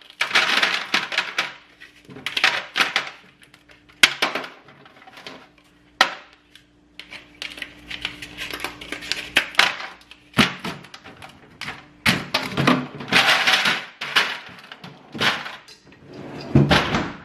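Repeated clattering and clinking of hard kitchen items being handled and set down, with a few sharp knocks, over a faint steady hum.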